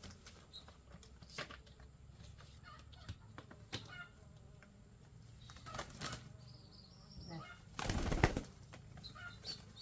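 Birds moving about with scattered small clicks and short chirps, then a brief loud flurry of wing-flapping about eight seconds in.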